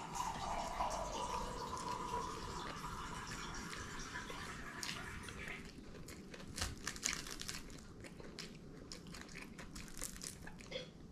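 A person biting and chewing fried fish, with short crunchy clicks that are densest past the middle. A faint tone slides down in pitch over the first few seconds.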